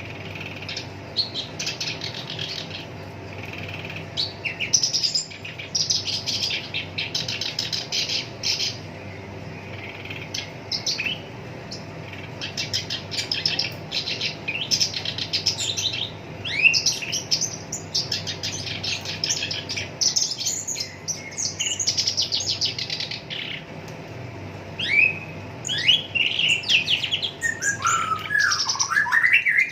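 Black-browed reed warbler singing a long, harsh chattering song of fast rattling trills, broken by short rising and falling whistled notes.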